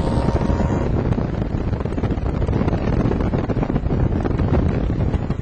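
Wind buffeting the microphone: a loud, fluctuating rumble with no clear engine note.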